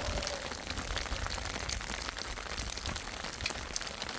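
Steady rain falling, a dense irregular patter of drops over a low rumble.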